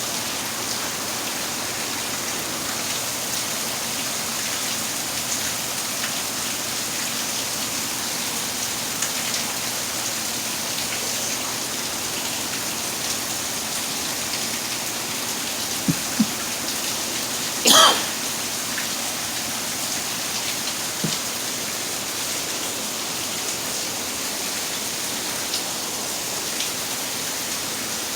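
Steady rain falling, an even hiss throughout. About sixteen seconds in there are two short knocks, followed a moment later by a louder, brief sharp noise.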